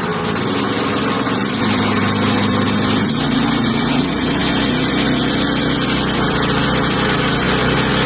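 Small 212cc single-cylinder four-stroke engine of a long-tail mud motor running steadily, its pitch shifting slightly a couple of times, with a hiss over the engine note.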